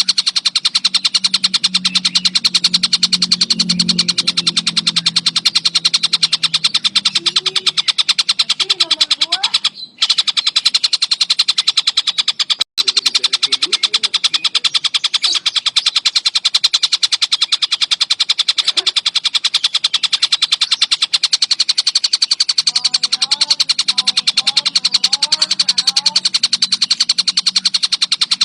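A songbird singing a very fast, unbroken trill, a rapid rattle of high notes, with two brief breaks just under halfway through.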